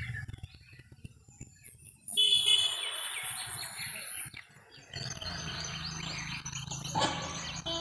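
Small birds chirping over and over, with a louder, harsher sound lasting about two seconds starting about two seconds in, and a single sharp click near the end.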